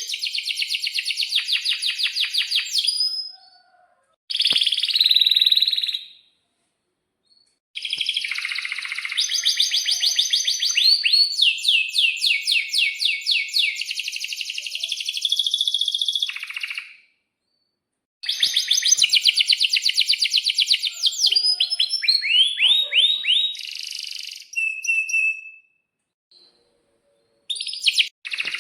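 Domestic canary singing long phrases of fast rolling trills, rapid runs of repeated high notes with some quick sweeping notes, broken by short pauses of a second or two.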